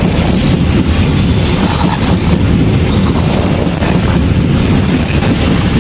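Train running past close by: a loud, steady rumble of wheels on rail, with a faint high wheel squeal for a moment early in the passage.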